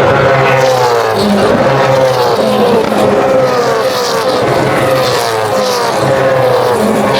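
Race cars passing one after another at speed, each engine note dropping in pitch as it goes by, a fresh drop about every second.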